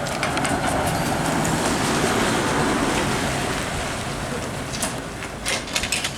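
A heritage electric vehicle running, a broad rumble that swells to its loudest about two seconds in and then fades away. A few sharp clicks come near the end.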